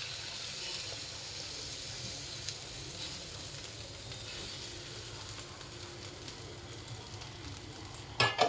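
Beaten egg frying in a hot wok over stir-fried onions, a steady sizzling hiss as it sets. A brief clatter near the end.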